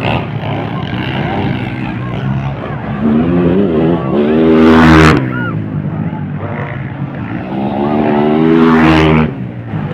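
Motocross dirt bike engines revving hard, twice: one climbs to a loud peak about five seconds in and cuts off sharply, then another builds to a peak just after nine seconds and drops away suddenly.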